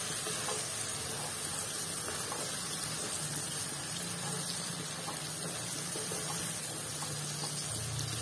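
Potatoes and tomato masala sizzling steadily in a nonstick kadhai while a wooden spatula stirs them, with faint scrapes and light taps.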